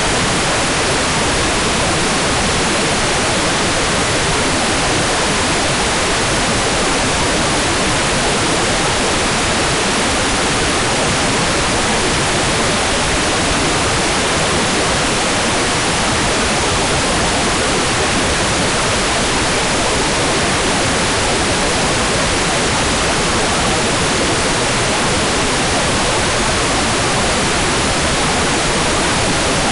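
Hair dryer blowing steadily: a constant, even rushing hiss with no change in pitch or level.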